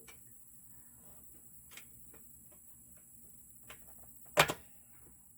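A few light clicks and taps of parts being handled during assembly, then a sharp double knock about four and a half seconds in.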